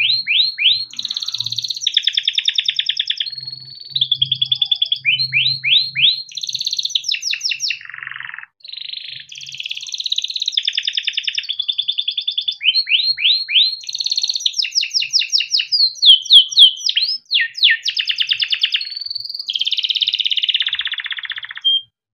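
Domestic canary singing a long unbroken song of rapid trills and rolls, with quick rising sweeps between them. The song stops suddenly near the end.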